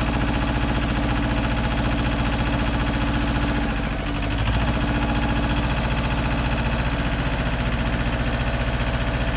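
Small Yanmar diesel tractor running steadily while driving a PTO rotary tiller; the engine note sags briefly about four seconds in, then recovers.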